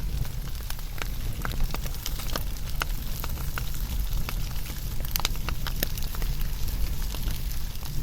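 Wood fire burning, with a steady low rumble and irregular sharp crackles and pops, which come thickest about five seconds in.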